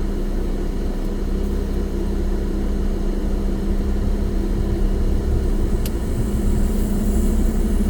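Off-road vehicle engine running steadily, with a single sharp click about six seconds in.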